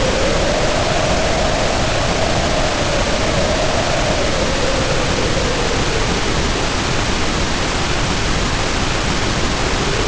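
Heavy rain pouring down in a steady hiss, with storm wind howling over it in a tone that slowly rises and falls, dying away after about six seconds.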